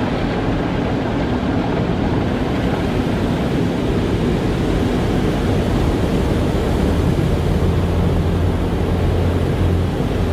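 Car wash machinery and water spray running as one steady, low-heavy noise, with a low hum growing stronger about seven seconds in.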